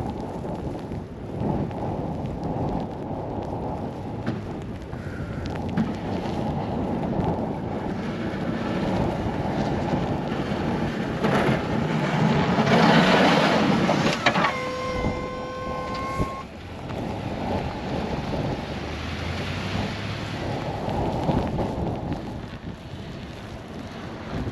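Strong blizzard wind buffeting the microphone over a snow-removal machine's engine, with the loudest gust about halfway through. Soon after, a steady pitched tone sounds for about two seconds.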